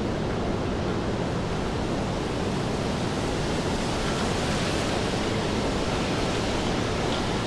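Steady rain falling on a city street, an even hiss that holds at one level throughout.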